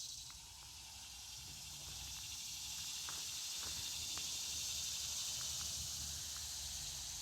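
Steady high-pitched buzzing of a summer insect chorus, swelling slightly in the middle, with a few faint ticks and a low rumble of wind on the microphone underneath.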